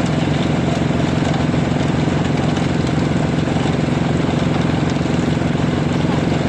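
Diesel engine of a concrete mixer truck running steadily, a low, evenly pulsing engine hum.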